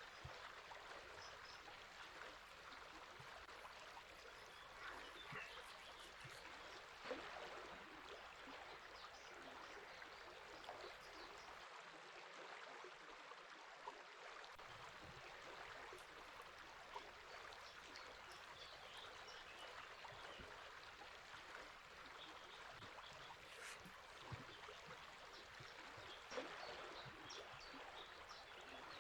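A river flowing steadily and faintly, with scattered brief bird chirps now and then.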